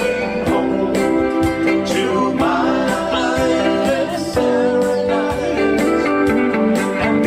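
Samoan song performed live: steadily strummed guitar accompaniment with a voice singing the melody.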